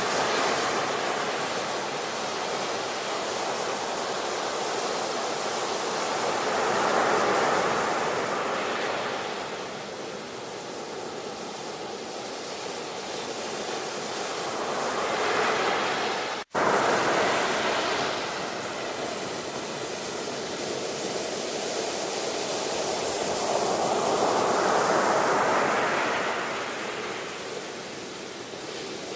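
Ocean surf: waves breaking and washing ashore, the noise swelling and easing roughly every eight to ten seconds, with a split-second gap about halfway through.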